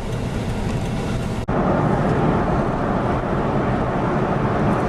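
Ford F-450 tow truck's V10 engine running under way, with a steady engine and road noise. A sudden brief dropout comes about a second and a half in, after which the sound is a little louder.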